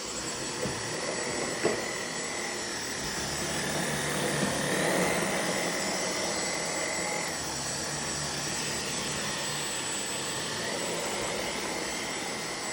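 Dyson vacuum cleaner running on carpet: a steady rushing motor noise with a high whine.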